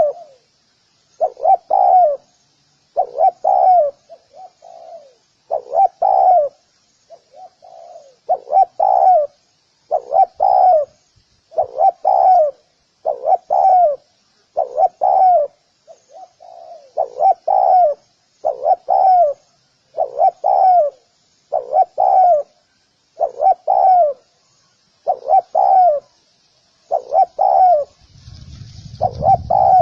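Spotted dove cooing over and over, a short phrase of low coos about every one and a half to two seconds. Faint high chirping runs underneath, and a low rumble comes in near the end.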